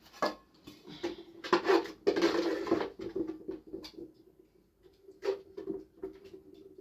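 A series of short knocks and scrapes of objects being handled, busiest in the first half, over a faint steady low hum.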